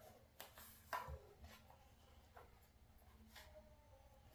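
Faint paper rustles and light taps as the pages of a picture book are turned, a few separate short sounds with near silence between them.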